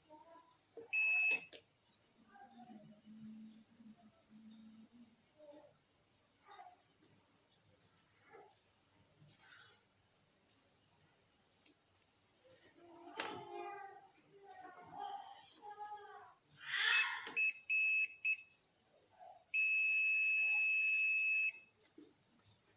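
Crickets chirping steadily in the background while a high-pitched electronic beeper sounds: a short beep about a second in, a few short beeps around 17 to 18 seconds in, then one steady beep of about two seconds near the end. Faint clicks of handling tools and wires come in between.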